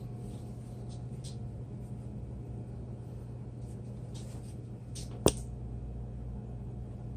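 A steady low mains-like hum, with faint brief rustles and one sharp click a little after five seconds in.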